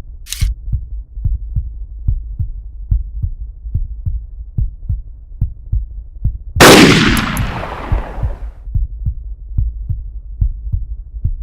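Low, heartbeat-like thudding pulse, about two and a half thuds a second, edited onto the soundtrack. One loud crashing boom comes about two-thirds of the way through and dies away over a couple of seconds.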